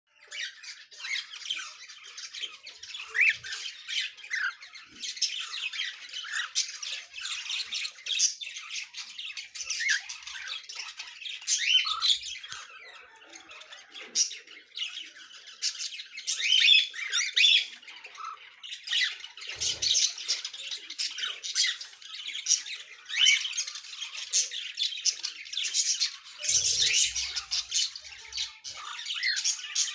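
A group of caged cockatiels squawking and chirping continuously, many short calls overlapping.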